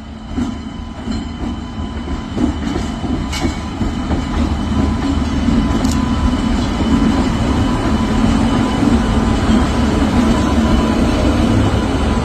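Indian Railways train rolling over a diamond crossing, a steady rumble of wheels on rail growing louder, with a few sharp clacks in the first half as the wheels strike the crossing's rail gaps.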